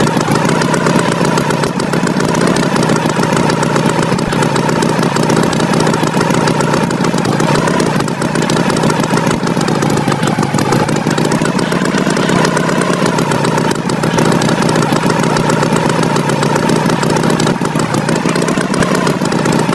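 Tractor engine running steadily, with a fast, even pulsing and a pitch that wavers slightly.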